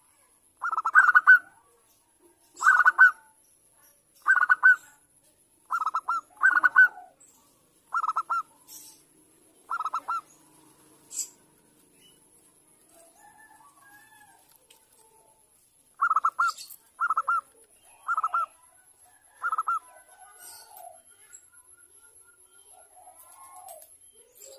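Zebra dove (perkutut) cooing: a series of short, rattling coos, about one every second and a half, then a pause of several seconds and four more coos.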